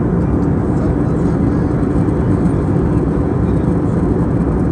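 Steady low rumble of airflow and engines inside the cabin of an Airbus A320neo airliner, even and unchanging.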